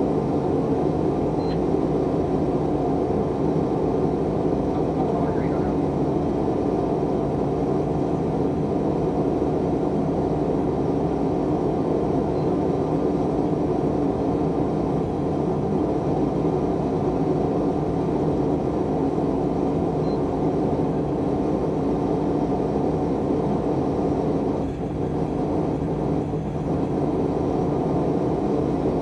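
Forge burning steadily, a continuous low rushing noise.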